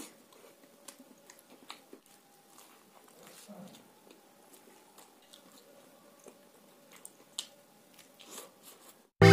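Close-up chewing and mouth sounds of someone eating soft fried puri bread with curry by hand: quiet smacks and small clicks, over a faint steady hum.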